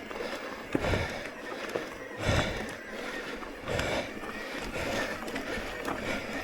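Mountain bike riding over a rough woodland dirt trail: steady tyre and rattling noise, with several heavy thumps from bumps and drops, the loudest about two seconds in.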